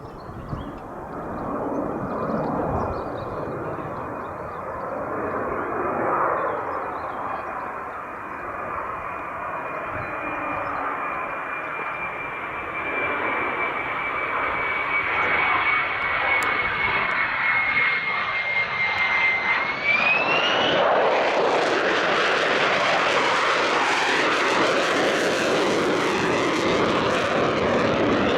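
Military fighter jet's engine, a steady high whine drifting slowly down in pitch over the roar. About 20 seconds in the whine rises sharply and the roar grows louder and fuller.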